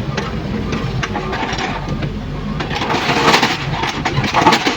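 Kobelco mini excavator's diesel engine running steadily, getting louder and noisier from about three seconds in.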